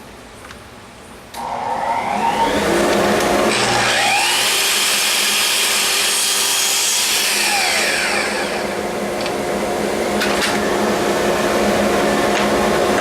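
Electric power tool switching on about a second in and running loudly, its pitch rising at first and falling away in the middle, over a steady motor hum.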